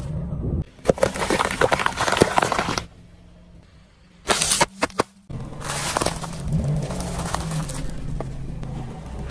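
Objects cracking and crunching as a car's tyres roll over and crush them, over a steady low engine hum. The sound comes in several short pieces that start and stop abruptly, with the densest cracking about a second in and again from about halfway.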